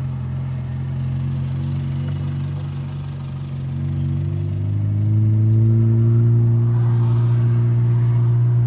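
Ford Cargo 2628 dump truck's diesel engine heard from the cab, running steadily and then picking up revs about four seconds in, growing louder and holding there near the end.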